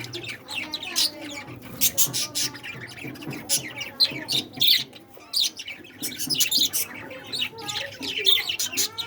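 A flock of budgerigars chirping and chattering without pause, many quick, sharp chirps overlapping.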